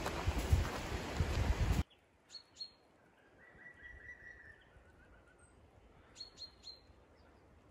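A loud steady rushing noise that cuts off suddenly about two seconds in. It gives way to a quiet woodland where small birds call: two sharp chirps, a soft falling trill, then three more quick chirps near the end.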